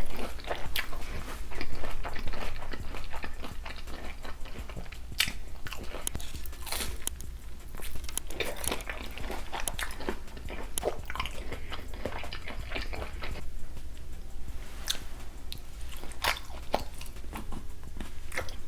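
Close-miked mukbang eating of a seafood boil: irregular wet biting, crunching and chewing with many sharp clicks, over a low steady hum.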